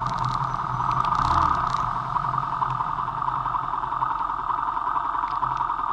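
Vento Rocketman motorcycle running under way, a low steady engine hum beneath a constant rushing noise from the ride.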